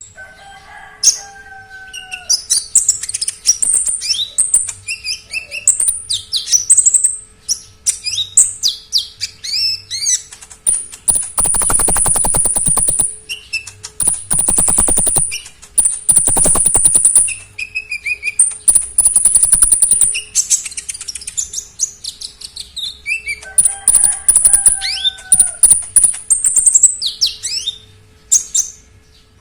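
A konin songbird singing loudly and without pause, in a varied run of high chirps and quick glides broken by long, fast rattling trills. Its song is packed with imitated calls of other birds.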